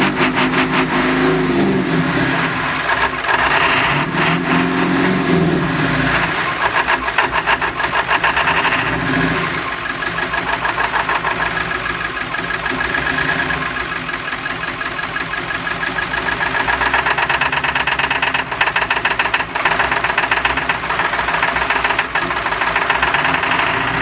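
Ford F-350 Super Duty engine running through stack exhaust pipes with a rapid, even clatter. Its pitch rises and falls a few times in the first ten seconds, then it settles to a steadier run.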